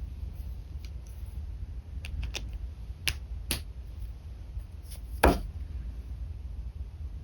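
Scattered light clicks and taps from a pen being handled on a drawing desk, with one louder knock about five seconds in, over a steady low hum.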